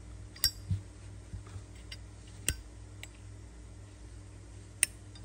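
Sharp metallic clicks and clinks from a Zippo lighter being handled: about five separate strikes, the loudest about half a second in and near the end.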